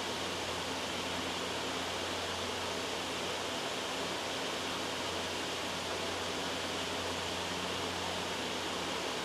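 Steady white noise: an even hiss that does not change, with a faint low hum beneath it.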